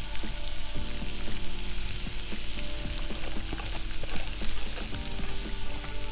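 Pork chops sizzling in a cast iron pan over a campfire, with a steady frying hiss and many small crackles and pops.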